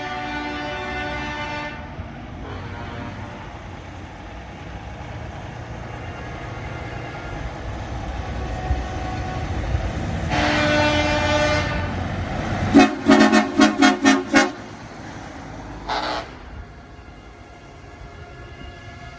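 Trucks' air horns over the low rumble of passing diesel engines. A horn sounds at the start, a long blast comes about ten seconds in, then a quick string of about seven short blasts and a brief toot.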